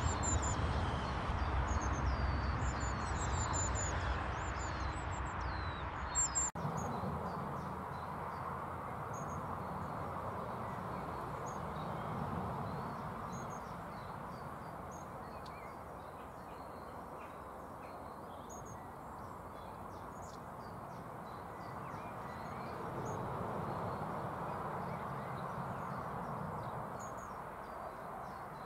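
Small birds chirping and calling in short, high, sliding notes over steady rushing wind noise. The background drops off suddenly about six and a half seconds in, and the birdsong carries on more clearly.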